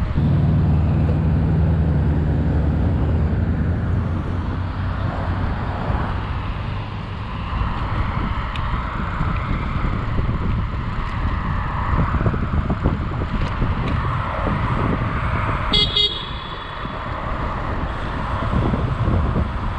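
Wind buffeting an uncovered action-camera microphone, mixed with road and traffic noise while riding an e-bike. A low steady hum runs for the first few seconds, and a short horn toot sounds about 16 seconds in.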